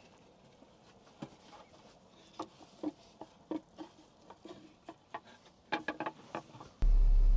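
Soft, scattered mouth clicks and small crunches of someone chewing a slice of pizza close to the microphone. Near the end it cuts suddenly to loud, steady truck road noise.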